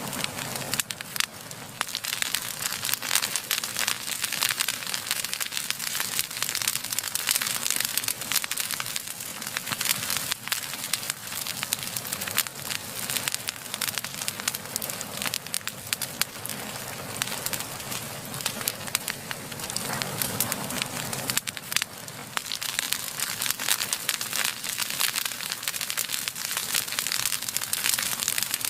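Fire burning with dense, continuous crackling and snapping, many small sharp pops a second over a steady hiss.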